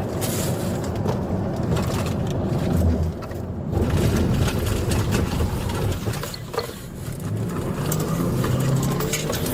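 Car driving at speed during a police pursuit: steady engine and road noise.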